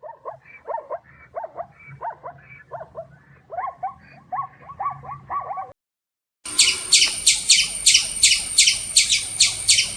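Animal calls: a run of short yelping calls, each dipping in pitch, about two a second, which stop a little over halfway through. After a brief gap a fast, shrill, evenly repeated chirping starts, about four to five strokes a second.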